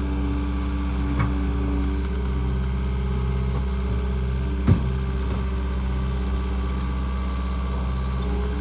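Engine of an earthmoving machine running steadily, with a light knock about a second in and a sharp clank just under five seconds in.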